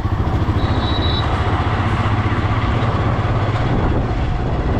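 Motorcycle engine running steadily while riding, a fast pulsing low rumble with wind and road noise over it. A short high tone sounds about half a second in.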